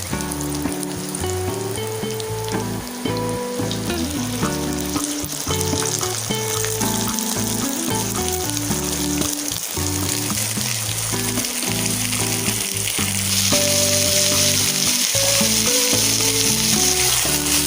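Chicken pieces sizzling and frying in hot oil with sautéed garlic, onion and ginger; the sizzle grows louder about two thirds of the way through.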